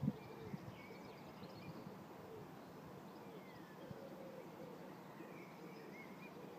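Faint birds calling, a few short chirps and one sliding note scattered over a low steady outdoor background, with a single dull thump right at the start.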